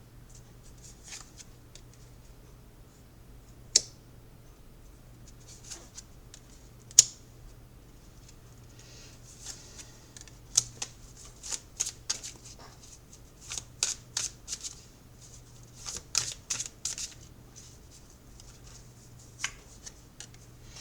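Tarot cards being shuffled and handled: two sharp card snaps about four and seven seconds in, then flurries of quick, light strokes of cards sliding and flicking against each other through the middle.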